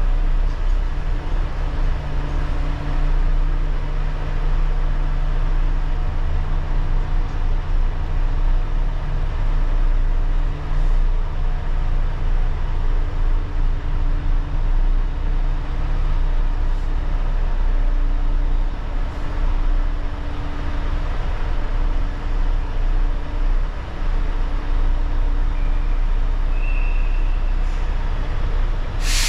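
Volvo truck's diesel engine running with a steady low drone.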